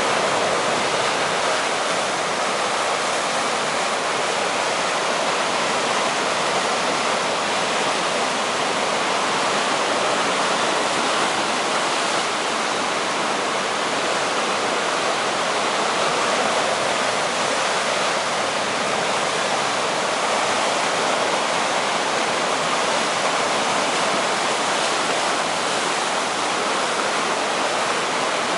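Steady rushing roar of heavy surf breaking on a reef, driven by a typhoon swell.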